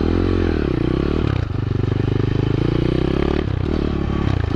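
125cc four-stroke single-cylinder pit bike engine revving up and falling back in the first second, then running steadily, with a brief dip and pickup in revs near the end.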